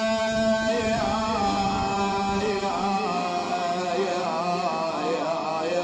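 A man's voice in Arabic elegiac chanting for Imam Hussein, drawn out in a long wordless melisma. It holds one steady note, then from about a second in wavers and turns in ornamented runs.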